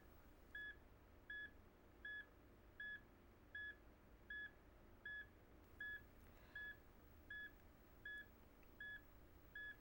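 Hospital patient monitor beeping quietly and steadily, a short single-pitched beep about every three-quarters of a second, marking the patient's heartbeat.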